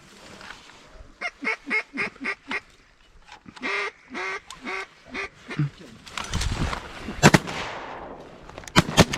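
Duck quacking: a quick run of about seven quacks falling in pitch, then a few longer quacks. Near the end come several sharp, loud shotgun shots.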